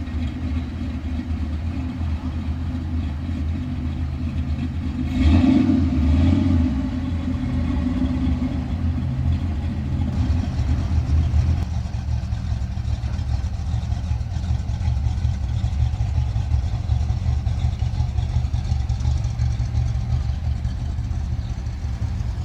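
A car's engine running near the microphone, with a brief louder rev about five seconds in.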